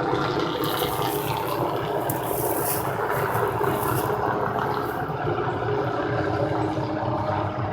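Helicopter flying overhead: a steady mix of rotor noise and engine whine that holds at a fairly even level.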